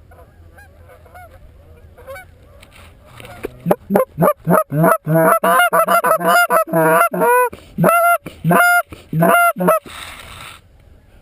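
Geese calling faintly at first, then, about three and a half seconds in, a loud, rapid run of goose honks and clucks lasting some six seconds that stops abruptly.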